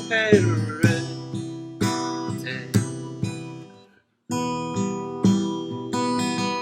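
Song accompaniment of strummed acoustic guitar chords, with a single sung word gliding down in pitch near the start. About four seconds in the sound cuts out completely for a moment, then the strumming resumes.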